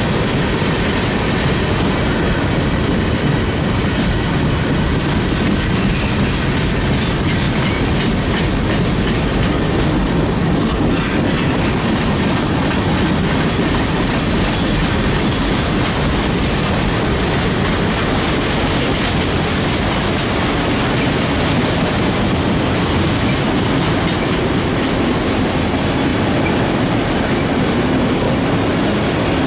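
Train cars rolling past, steel wheels clacking over the rail joints in a steady run.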